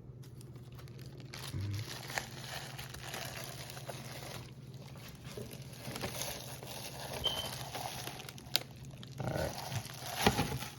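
Plastic wrapping of a frozen pizza crinkling and rustling as it is worked open by hand, with scattered small crackles over a steady low hum.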